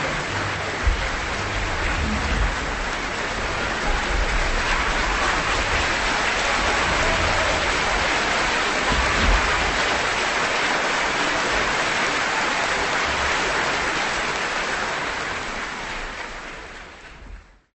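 Audience applauding, a dense steady clatter of many hands clapping that fades out over the last two seconds or so.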